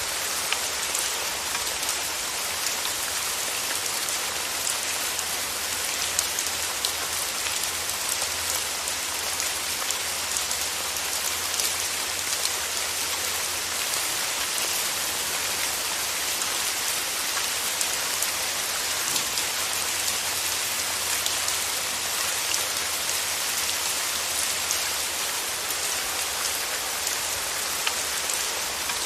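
Steady heavy rain, a dense even patter of drops hitting surfaces, with individual drop ticks scattered through it.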